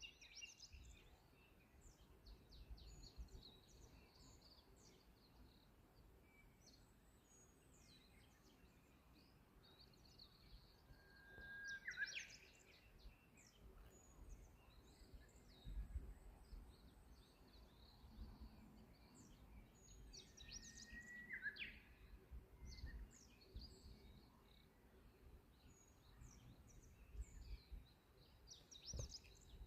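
Japanese bush warbler (uguisu) singing twice, each song a long held whistle that ends in a quick rising flourish, over faint chirping of other small birds.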